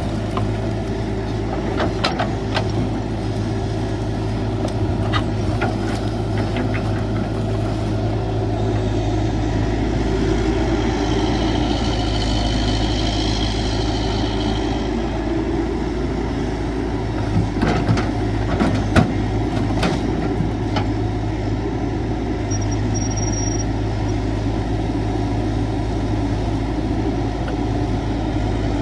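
Caterpillar 312 excavator's diesel engine running steadily, with a few sharp knocks and clanks and a higher whine for a few seconds about a third of the way through.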